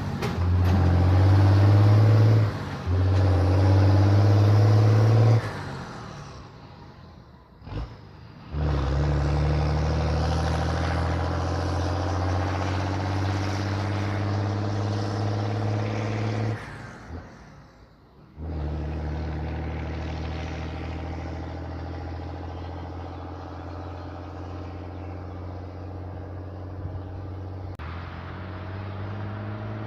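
Straight-piped diesel engine of a Same Antares II 130 tractor running under load on the road, at a steady pitch. The exhaust note drops away twice for a couple of seconds, about five and seventeen seconds in, then comes back on, with two very short dips near the start.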